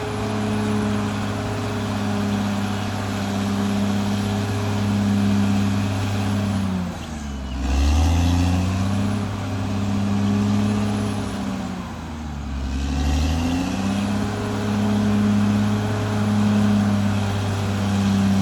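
Caterpillar D6R XL bulldozer's diesel engine running steadily under work; twice, about five seconds apart, the engine note sags and then climbs back.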